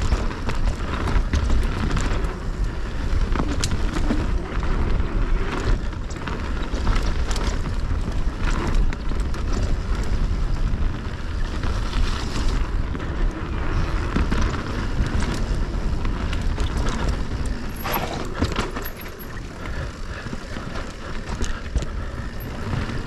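Moustache Game 160 electric mountain bike riding downhill on a dirt trail: heavy wind rumble on the microphone over tyres rolling on dirt, with frequent sharp clicks and rattles from the bike over bumps.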